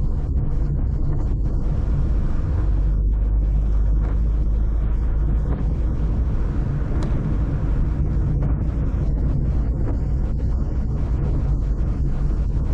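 Car driving along, a steady low rumble of engine and road noise with wind buffeting the microphone.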